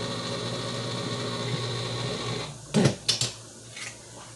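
A steady motor hum from a kitchen appliance that cuts off a little over halfway through, followed by a few quick knocks and clatters.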